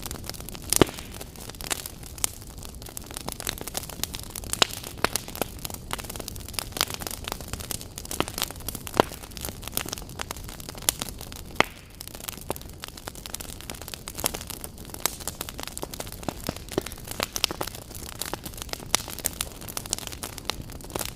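Wood fire burning in a fireplace: dense, irregular crackling and sharp pops over a steady low hiss.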